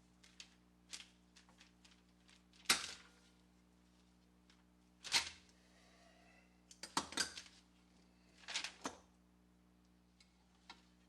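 Metal parts knocking and clinking as they are handled, in a few separate bursts: a sharp knock about three seconds in, another near five seconds, then quick clusters of clinks near seven and eight and a half seconds, with faint clicks in between.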